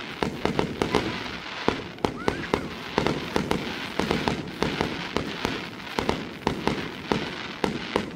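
Aerial fireworks going off in a rapid, dense string of sharp bangs and crackles, several a second, with a short rising whistle about two and a half seconds in.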